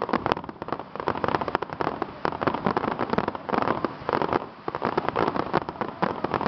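Fireworks finale: many aerial shells bursting together in a dense, unbroken barrage of rapid bangs and crackling.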